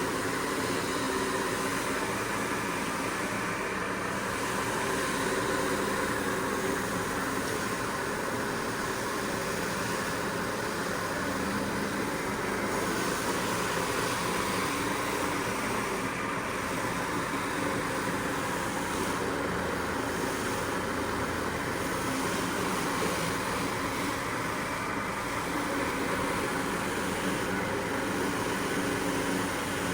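Steady machine noise: an even hiss over a faint hum.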